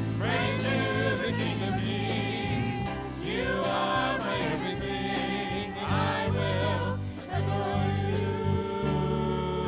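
Gospel worship song: voices singing together over instrumental accompaniment with steady bass notes, ending on a held note with vibrato.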